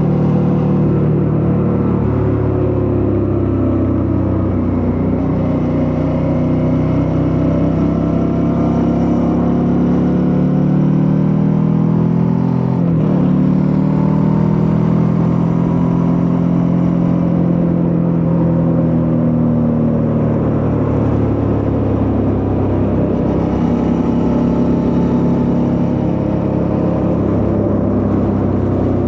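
Suzuki V-Strom 650's V-twin engine running under way, its pitch rising and falling with the throttle, with a brief sharp dip and recovery in pitch about halfway through.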